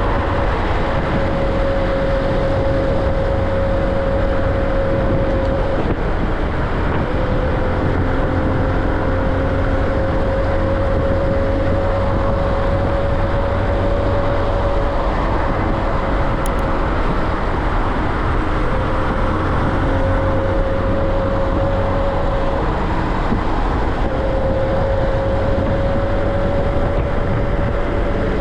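Motorcycle riding at speed, engine and wind noise with a steady whine that slowly rises in pitch, breaks off and comes back several times.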